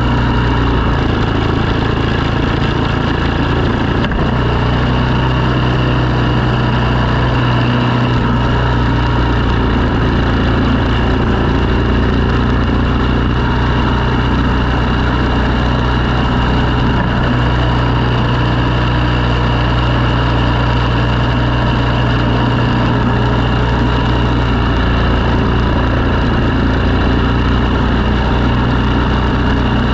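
Engine of snow-clearing equipment running steadily at an even speed, loud and unchanging throughout.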